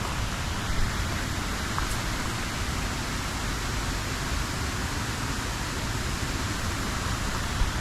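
River water rushing over rocks: a steady, even rush with no let-up.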